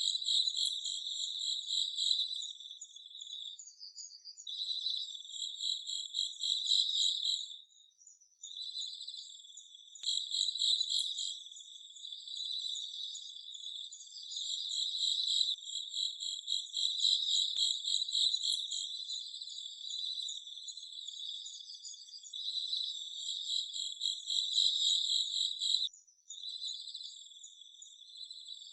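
Insects trilling in fast, high-pitched pulsing runs, breaking off briefly about eight seconds in and again near the end.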